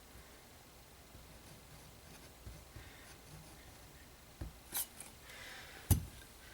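Workshop handling noises: a few scattered knocks and clicks as tools and parts are picked up and set down, the loudest a sharp knock near the end.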